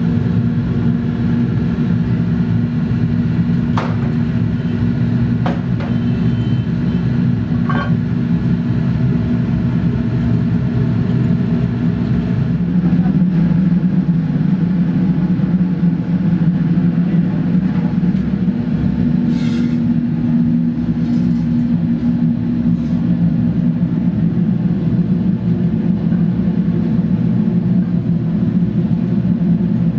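A machine running steadily with a loud, even hum; its tone shifts slightly about twelve seconds in. A few faint clicks sound over it in the first twenty seconds.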